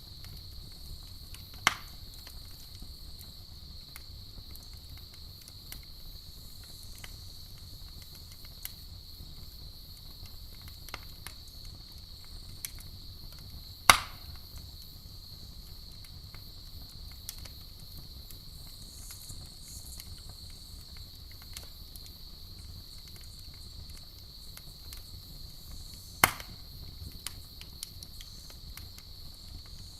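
Campfire crackling with small scattered snaps and three loud sharp pops, about twelve seconds apart, over a steady high-pitched trill of crickets.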